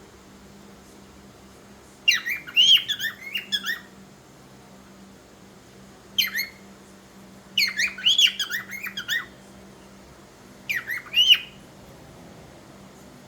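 Cockatiel calling in four short bouts of quick chirps and squawks with sharp pitch glides, the longer bouts about two seconds and one second in, pauses of a second or two between them.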